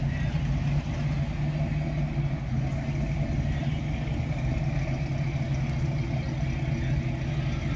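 Vintage car engines running at low speed as the cars drive slowly past, a steady low hum without revving.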